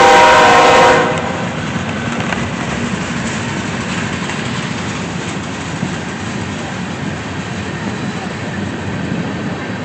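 Train horn sounding a blast that cuts off about a second in, followed by the steady rumble and clatter of the train rolling past.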